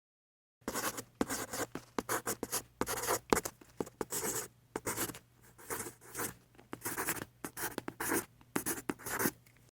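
Irregular quick scratching and rubbing strokes, like a pencil writing on paper, starting after a short silence.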